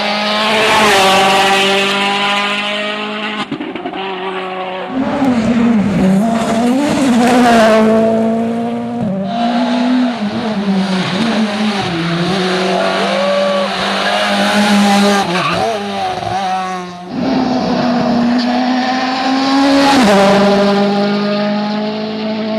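Rally cars driven hard one after another, with engines revving up and down through gear changes and tyres squealing.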